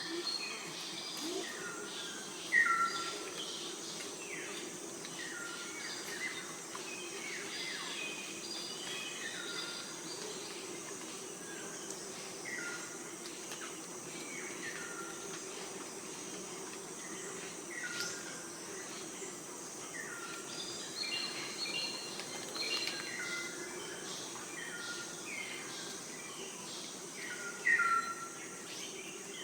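Wild birds chirping, many short calls that drop from a higher to a lower note, repeating throughout, over a steady low hum.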